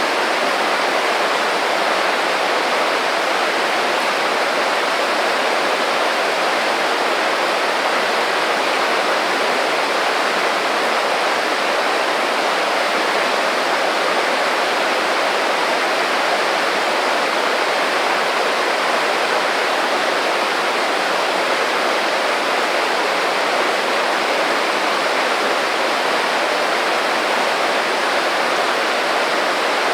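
A small creek babbling and rushing over stones, a steady even flow of water.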